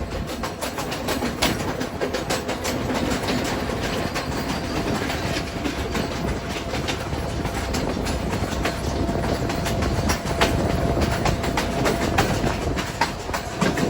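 Passenger train running along the track: the wheels clatter over the rail joints in an irregular stream of sharp clacks over a steady rumble. A faint thin whine comes in during the second half.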